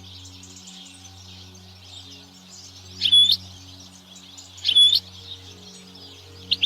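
European goldfinches twittering steadily, with two loud, identical calls standing out about three and five seconds in. Faint steady low tones run underneath.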